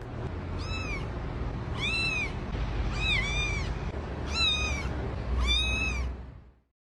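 A cat meowing five times in a row. Each call is a short, high, arched meow, about a second apart, over a steady low background rumble. The sound cuts off suddenly near the end.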